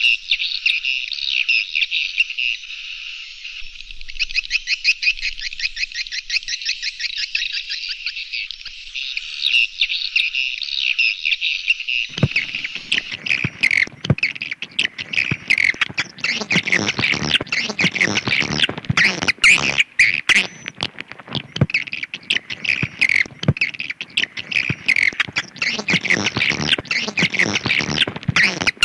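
Swiftlet call lure recording: dense, rapid high-pitched chirps and twitters. About twelve seconds in, the sound turns fuller, with lower tones and a crackle of sharp clicks joining the chirping.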